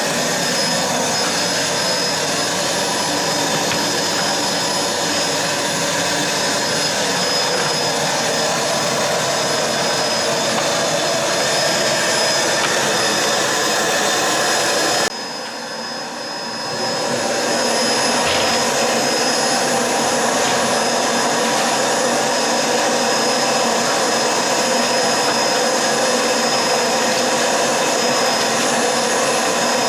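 Vacuum cleaner running steadily with a faint high whine. About halfway through the sound drops away suddenly, then comes back up over a second or two.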